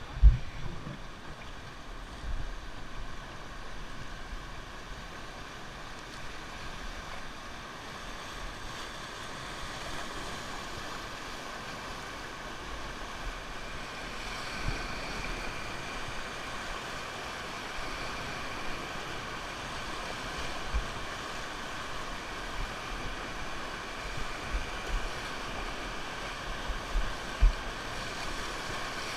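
Rushing river water, a steady churning hiss, with occasional low wind thumps on the microphone.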